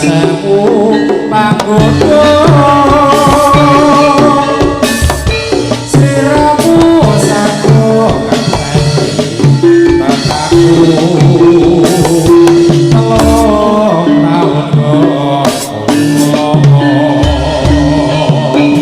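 Instrumental music from a live Javanese turonggo horse-dance band: drums keeping a steady beat under a held melody line.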